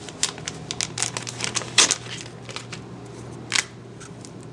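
Paper and cardstock rustling with light clicks and taps as a small handmade scrapbook album is handled, over a steady low hum.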